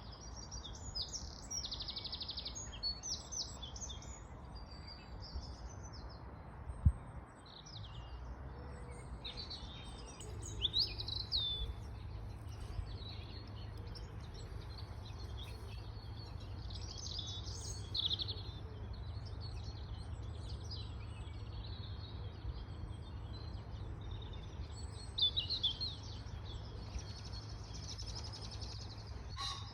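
Several songbirds singing and calling, with overlapping chirps and trills throughout, over a steady low rumble. There is a single sharp knock about seven seconds in.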